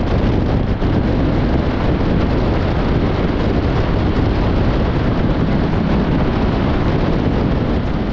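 Wind rushing over a helmet chin-mounted GoPro on a motorcycle at road speed, with engine and road noise underneath: a loud, steady rush.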